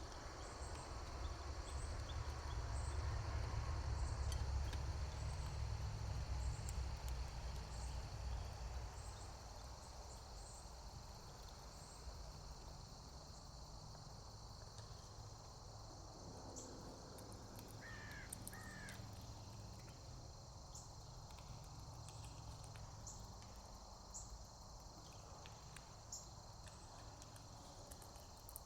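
Steady high insect chorus, like crickets trilling, with small birds giving short high chirps now and then and two quick falling calls about two-thirds of the way through. A low rumble underlies the first several seconds and fades out.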